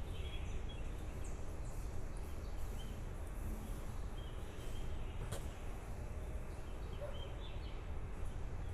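Faint, short bird chirps now and then over a steady low rumble, with one sharp click a little past halfway.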